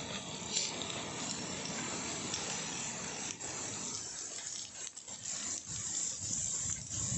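Sliced onions and green chillies frying in hot oil in a clay pot: a steady sizzling hiss with a few small crackles.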